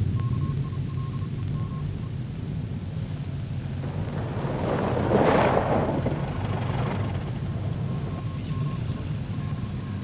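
Open army car's engine running with a steady low rumble, swelling to a louder rushing noise about five seconds in before settling back.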